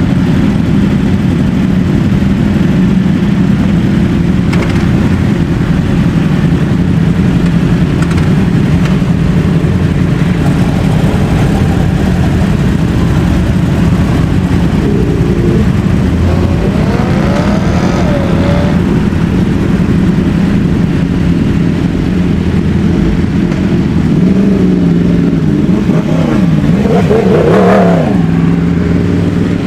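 Sport motorcycle engines running in a steady, loud rumble, with bikes revving and accelerating away, the pitch climbing about halfway through and again near the end.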